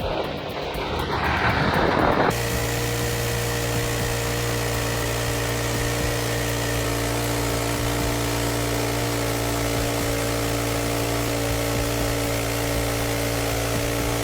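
An engine-driven heavy machine running at a steady speed, a constant drone of several held tones. It cuts in suddenly about two seconds in, replacing a rougher, louder noise.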